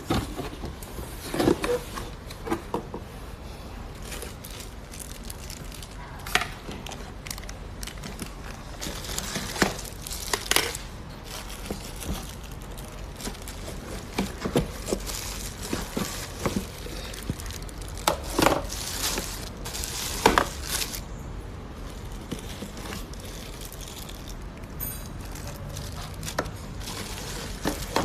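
Handling noises: packaging crinkling and rustling, with scattered clicks and knocks as parts are handled and set down.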